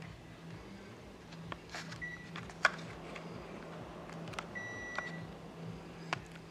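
Air conditioner beeps: a brief high beep about two seconds in and a longer one just after the middle, like a unit acknowledging its remote. Scattered sharp clicks are heard, the loudest just after the first beep, over a steady low hum.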